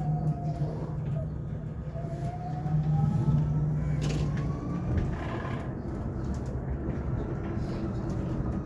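Cabin sound of a Hyundai Elec City 2 battery-electric bus under way: the electric drive's whine falls in pitch as the bus slows, then rises again from about two seconds in as it speeds up, over a steady low drone. A couple of knocks come around four to five seconds in.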